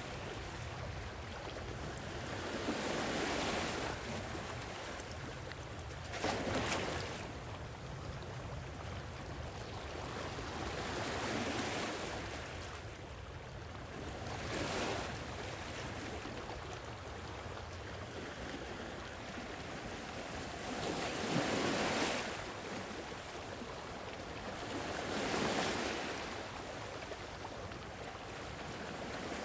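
Sea waves breaking and washing up on a shore, each surge swelling and receding every few seconds over a steady low rumble of surf, with a little wind.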